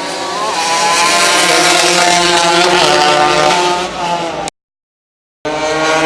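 Racing motorcycle engines from a 200cc class running hard at high revs, a steady buzzing note that shifts slightly in pitch. The sound cuts out abruptly for about a second after roughly four and a half seconds, then comes back.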